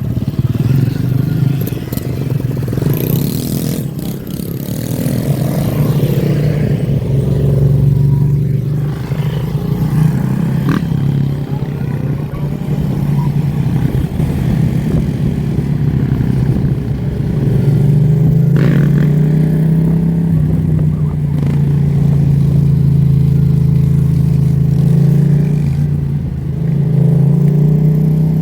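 Motorcycle and dirt bike engines running together, revs rising and falling. A steadier, stronger engine drone takes over in the second half.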